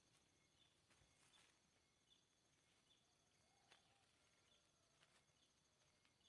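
Near silence: a faint steady hiss with soft, short high chirps about once a second and a few faint clicks.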